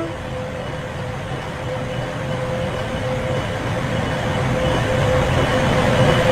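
Train running: a steady rumbling noise with a thin steady whine, growing gradually louder.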